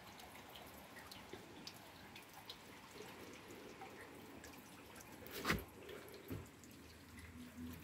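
Light rain dripping: scattered, irregular drops tapping. One louder tap comes about five and a half seconds in.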